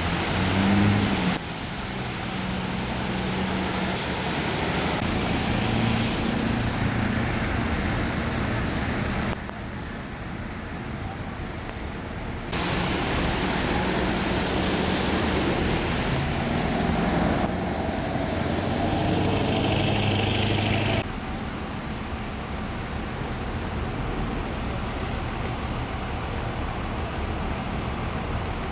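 A vehicle engine running under a steady rushing noise, with the sound changing abruptly several times as clips are cut together.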